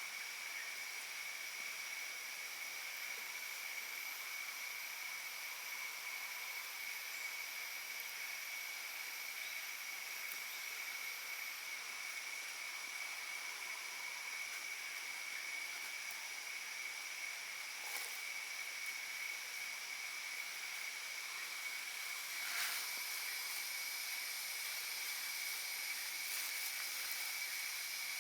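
Steady chorus of insects, several high pitched tones held constantly over an even hiss, with a faint click about eighteen seconds in and a brief louder rustle a few seconds later.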